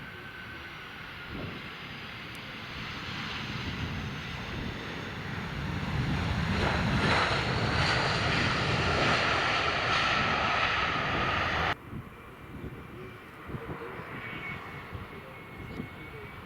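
Jet airliner engines growing louder to a loud rush with a whine, then cut off suddenly a little before the end, leaving a fainter, higher jet whine. Wind buffets the microphone throughout with a gusty low rumble.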